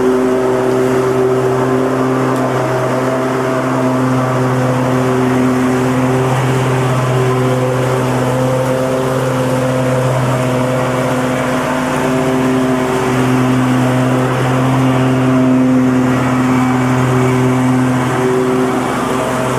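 Lawn mower engine running steadily under load, a continuous buzzing hum whose pitch wavers slightly, with the rush of the blade cutting grass.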